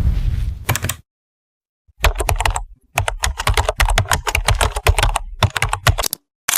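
A sound effect of fast typing on a computer keyboard: quick, irregular key clicks for about four seconds. It comes after the tail of a boom fades out and a second of dead silence.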